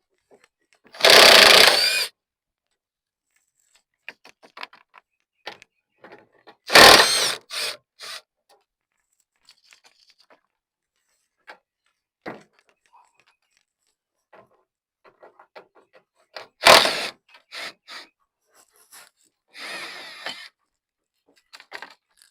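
Power tool running in three short bursts, several seconds apart, as it backs out 13 mm hood-hinge bolts, with small clicks and handling noises between.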